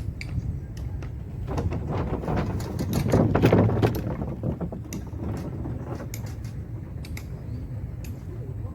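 A vehicle's motor running with rattling and clicking, swelling louder about three seconds in and easing back after.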